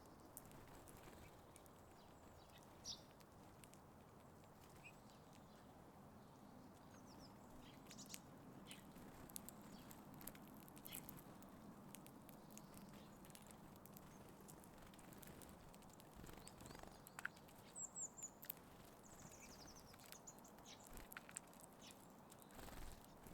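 Small birds at a feeder: faint scattered pecking and tapping, with a few short, high chirps, a small cluster of them about two-thirds of the way through, over a steady low hiss.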